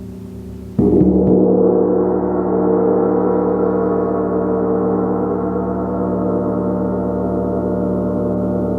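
A gong, still ringing from an earlier stroke, is struck again about a second in; the new stroke blooms into a loud, dense wash of many overlapping tones with a shimmer that spreads higher over the next couple of seconds, then rings on steadily.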